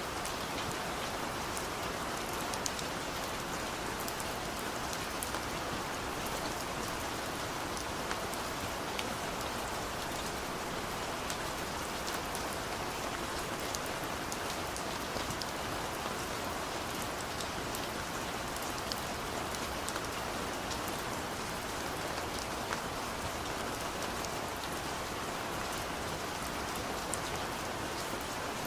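Steady rain drumming on a car's roof and windows, heard from inside the cabin, with many small individual drop ticks over an even hiss.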